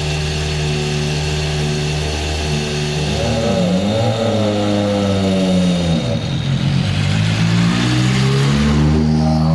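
Toyota Yaris WRC rally car's turbocharged four-cylinder engine running hard at high revs, holding a steady pitch at first, wavering and dropping about halfway through, then climbing steadily again as the car accelerates.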